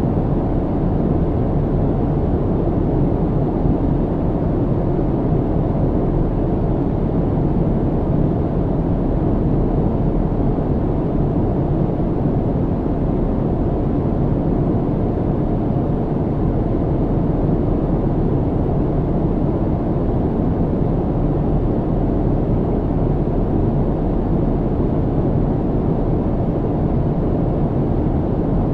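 Steady, low airliner cabin noise in flight: the constant engine and airflow rumble heard inside the cabin, deep and even with no change.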